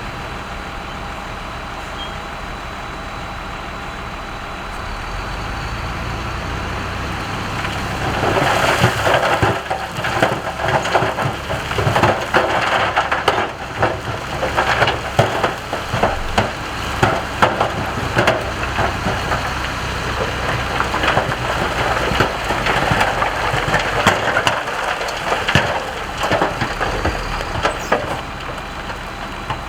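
Heavy earthmoving machine's diesel engine running steadily, then from about eight seconds in, a long spell of rock and gravel clattering and crunching as a load of rock is moved, before it eases off near the end.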